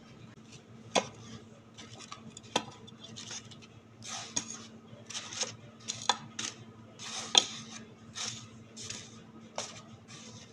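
Eating utensils clinking and scraping against a dish, with a few sharp clinks among softer scrapes.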